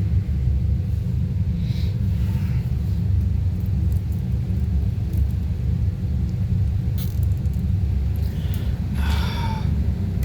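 Refrigeration unit of a walk-in fridge running with a steady low rumble and hum.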